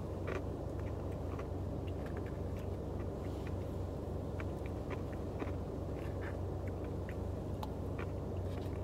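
A person eating a spoonful of Dairy Queen Blizzard ice cream: small scattered clicks of the spoon and quiet chewing over a steady low hum.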